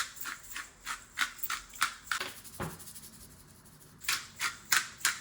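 A run of quick, crisp scratchy strokes from hands preparing food, about three a second, pausing for about a second and a half, then a few more about four seconds in.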